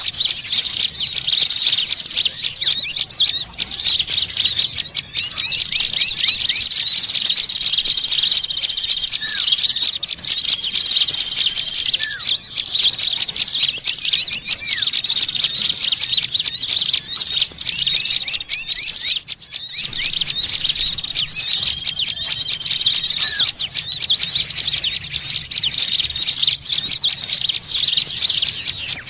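Many small songbirds chirping and calling at once, a dense, noisy commotion of overlapping high chirps and trills with no pause. It is the kind of agitated small-bird racket played as a lure call to draw birds in for trapping.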